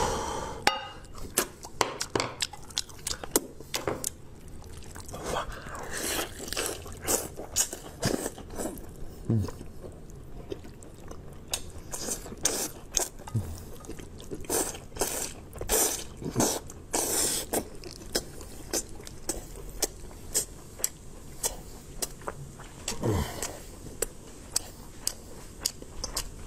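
Close-miked chewing and biting of steak: many short, wet mouth clicks and smacks at an irregular pace.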